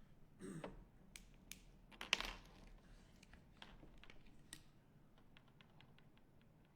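Art supplies handled on a tabletop: scattered light clicks and taps, with two short scraping rustles about half a second and two seconds in, then a run of faint quick ticks.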